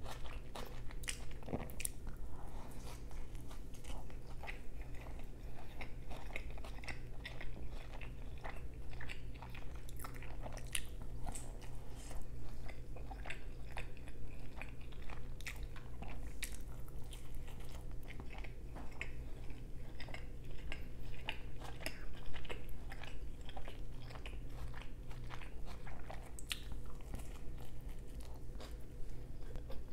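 Close-miked chewing and biting into a slice of shrimp-and-cheese pizza, with many small sharp mouth clicks scattered irregularly throughout.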